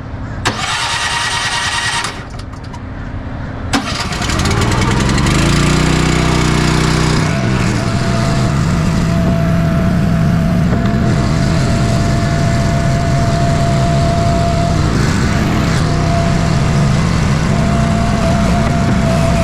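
An engine starts up about four seconds in and runs steadily, with a thin whine over it that drops out briefly now and then. It is powering the hydraulics that lower and detach the lowboy trailer's gooseneck.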